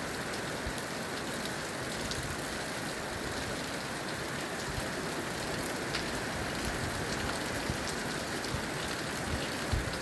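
Steady rainfall: a constant hiss of rain with scattered ticks of individual drops hitting a surface.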